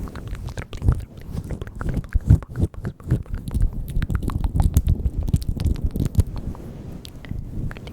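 Close-up ASMR mouth sounds: rapid, irregular wet clicks and smacks right at the microphone, over soft low thuds.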